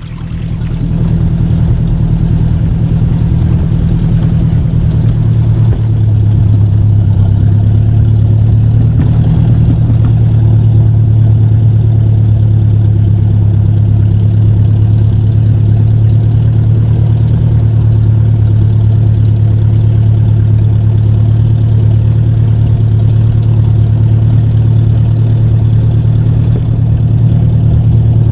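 1953 Ford Jubilee tractor's four-cylinder gasoline engine running steadily as the tractor gets under way. It grows louder over the first second or two and steps up again about six seconds in.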